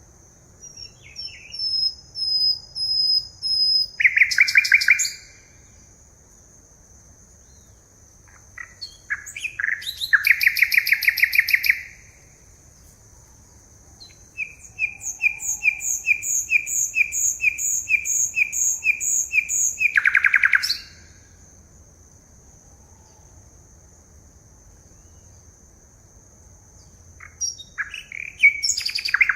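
A songbird singing in four bouts of a few seconds each, with pauses between: quick series of repeated clear notes and trills, each bout ending in a dense rapid burst. A thin steady high tone runs underneath throughout.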